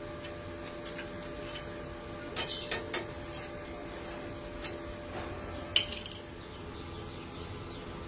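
Metal pieces being handled, giving light clinks and scrapes: a short cluster about two and a half seconds in and one sharper clink near six seconds. A steady hum runs underneath.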